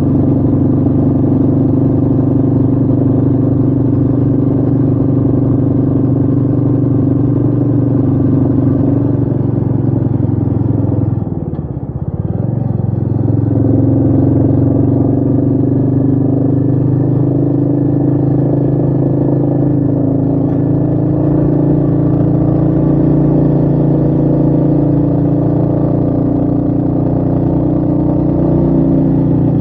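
Royal Enfield Meteor 350's single-cylinder engine running steadily under way. About eleven seconds in, the revs drop briefly and then climb back up.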